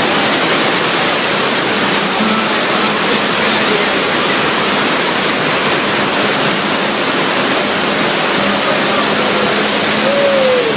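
Steady rush of water from the earthquake set's flood effect pouring through the subway station. A faint voice is heard near the end.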